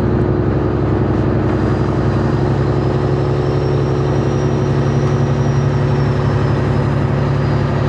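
Semi truck's diesel engine running steadily, heard from inside the cab as the truck gets under way in reverse, with a faint high whine above the engine.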